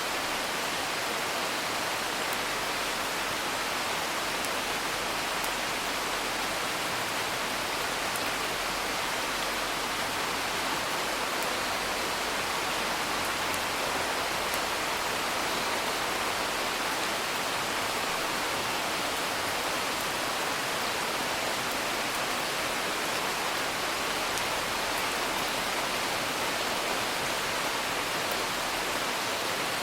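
Steady, even rain patter, with a few faint crackles of a wood fire.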